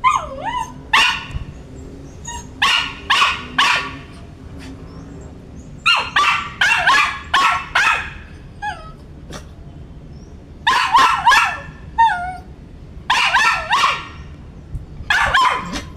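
A poodle barking in repeated short bursts of two to four quick barks, with brief whines in between the bursts.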